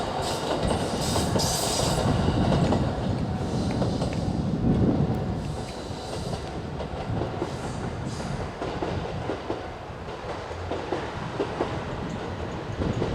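KiHa 189 diesel limited-express train running past, its wheels clattering over the rail joints. The sound is loudest for the first five seconds or so, then drops back as the train moves on.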